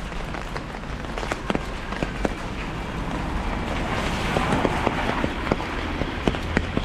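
Rain drumming on an umbrella overhead: scattered sharp taps of single drops over a steady hiss of rain, the hiss swelling for a second or two about midway.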